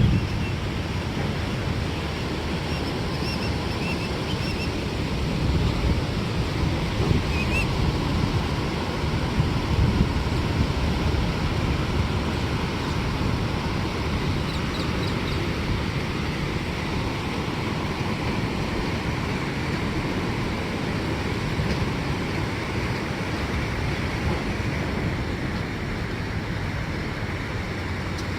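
Pacific Ocean surf washing onto the beach in a steady rush, swelling slightly now and then, with a few faint high calls a few seconds in and again near the middle.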